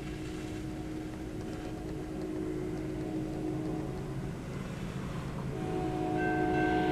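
GE ES44DC freight locomotive's air horn sounding as the train approaches: one long blast, a short break, then a second blast that grows louder and brighter, over a low steady rumble of the oncoming train.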